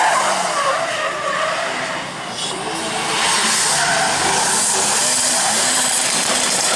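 Drift car running hard with its tyres skidding and squealing; the tyre noise dips about two seconds in, then swells and holds.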